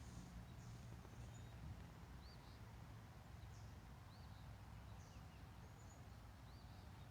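Faint birdsong across the water: short arched chirps repeating every second or two, with a few thin higher notes, over a low steady rumble.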